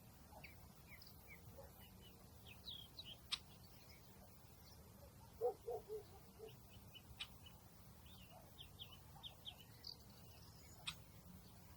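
Faint outdoor ambience of small birds chirping: scattered short, high chirps, a quick run of lower notes about halfway through, and three sharp ticks.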